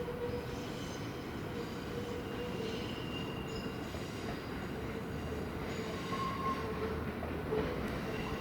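Electric commuter train running past: a steady rumble carrying a held hum, with brief higher-pitched wheel squeals about three seconds in and again around six seconds in.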